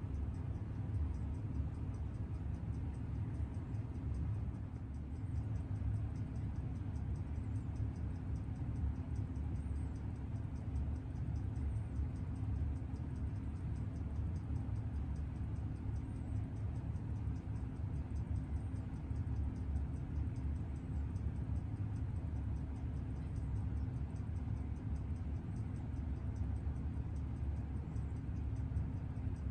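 Freshly rebuilt Seiko 6138 automatic chronograph movement ticking fast and evenly as it runs in on a timegrapher, over a steady low hum.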